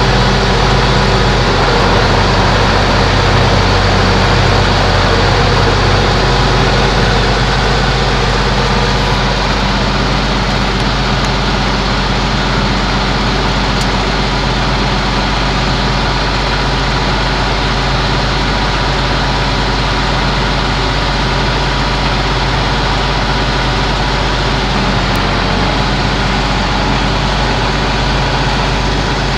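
John Deere 8430 four-wheel-drive tractor's turbocharged six-cylinder diesel engine running steadily. Its low engine note changes about six seconds in, and the sound is slightly quieter after that.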